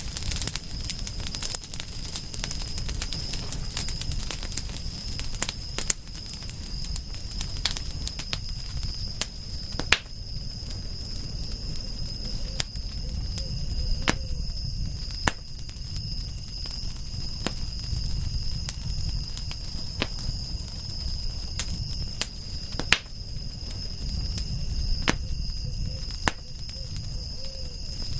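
Wood campfire crackling, with frequent sharp irregular pops over a low, steady rumble of flame. A constant high-pitched tone runs behind it throughout.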